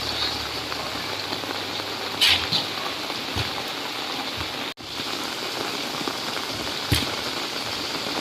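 Steady rain falling, an even hiss, with a couple of brief louder spatters about two and seven seconds in. The sound cuts out for an instant near the middle.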